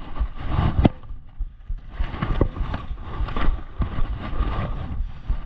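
Wind buffeting and rumble on an action-camera microphone, with irregular knocks and a sharp crack just before a second in.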